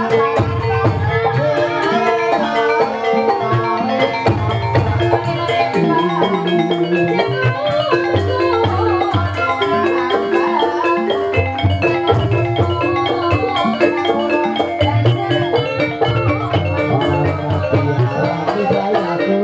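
Gamelan music accompanying an ebeg dance: tuned mallet percussion playing a repeating stepwise melody over drums and steady clicking strokes.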